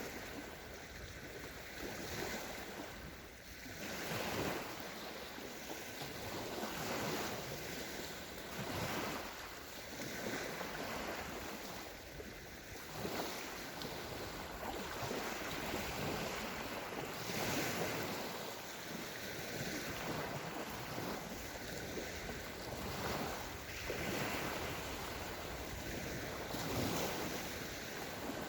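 Small sea waves breaking and washing onto a sandy shore, one surge every two seconds or so over a steady wash.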